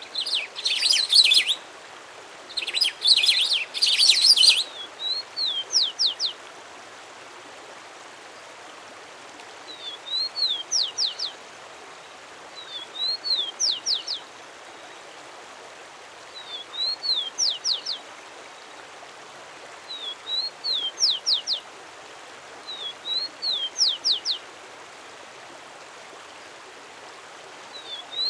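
A songbird singing in the wild. The first few seconds hold loud, dense, fast song phrases; from about five seconds in, a short phrase repeats about every three seconds: a rising-and-falling note followed by a few quick downward-swept whistles. A steady hiss of background noise runs under it.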